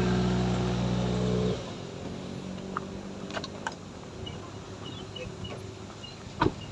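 Suzuki Ertiga MPV's engine running steadily under load, straining up a steep climb, then dropping away abruptly about a second and a half in. A quieter rumble follows, with a few light clicks and one sharp knock near the end.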